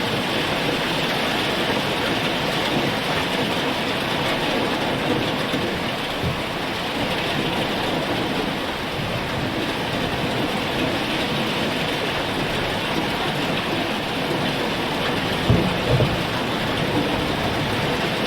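Heavy rain falling steadily in a dense, even downpour, with a couple of short low thuds about fifteen seconds in.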